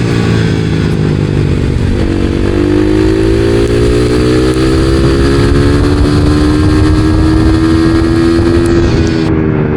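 Supermoto motorcycle engine running under way. About two seconds in its pitch dips, then it climbs slowly and steadily for several seconds as the bike accelerates, and drops again near the end as the throttle closes.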